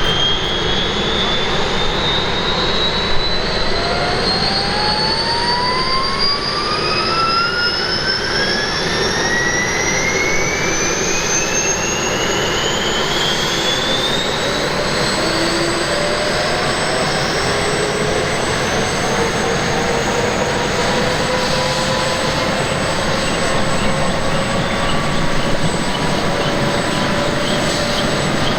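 AH-1S Cobra attack helicopter's turboshaft engine starting up. A high turbine whine rises steadily in pitch over a loud rushing noise, then levels off into a steady whine about halfway through as the engine spools up.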